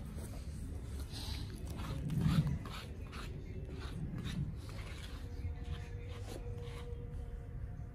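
Quiet rubbing and scraping of grooming work on a dog's coat, with scattered light clicks over a low steady hum and a brief louder low sound about two seconds in.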